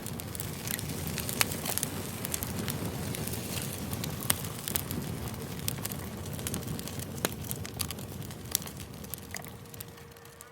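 Campfire crackling, with frequent irregular sharp pops over a steady low rush of flames, the sound easing slightly near the end.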